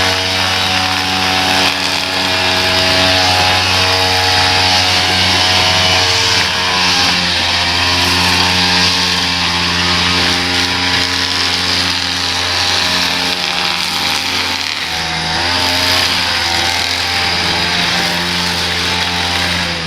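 Small gasoline engine of lawn-care equipment running steadily at speed, with a brief change in pitch about three quarters of the way through.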